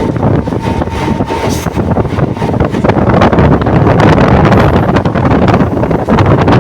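A moving train: loud, steady rumble with many small rattles and clicks, and wind buffeting the microphone.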